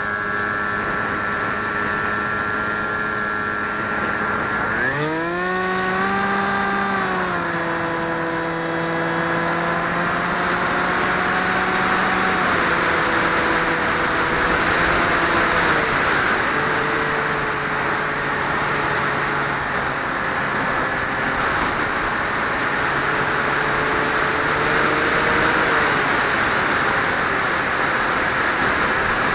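Electric motor and propeller of a Swift 2 flying wing in flight, heard from its onboard camera over rushing air. The pitch rises sharply about five seconds in as the throttle opens, then drops back in steps, with a brief rise and fall near the end.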